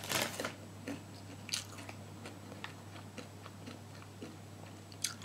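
Close-up chewing of crunchy kerupuk (Indonesian crackers): dense crunching in the first half-second thins out to scattered crisp crunches and clicks as the mouthful is chewed down.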